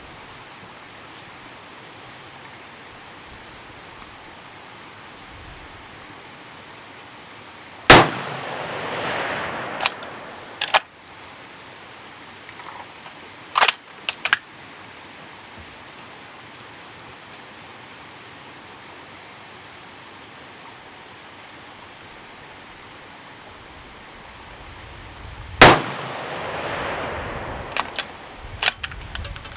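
Heavy-built 6.5 Creedmoor rifle fired twice, shots about 18 seconds apart, each a sharp crack with a rolling echo that fades over a couple of seconds. Several short metallic clicks follow each shot as the bolt is worked to chamber the next round.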